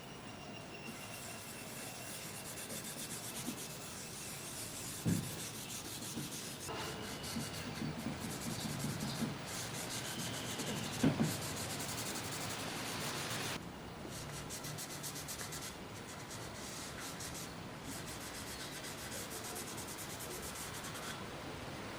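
Continuous hand-rubbing strokes on the surface of a pine wood box, the kind of scrubbing made by sanding or working in a finish, with two light knocks about five and eleven seconds in.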